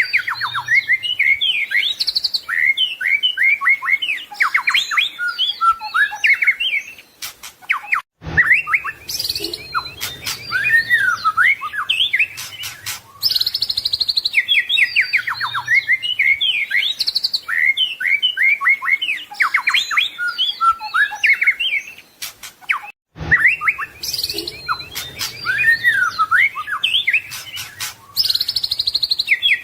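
White-rumped shama (murai batu) singing a fast, varied run of whistled and chattering phrases, broken by short pauses about seven and twenty-two seconds in; the same passage repeats about every fifteen seconds.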